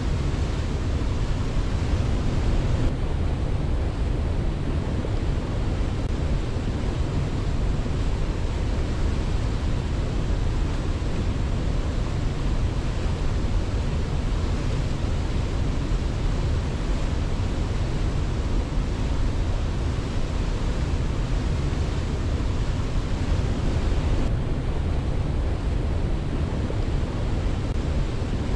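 Steady rushing of a waterfall, an even full-bodied roar that holds at one level, heaviest in the low range, with no birdsong heard over it.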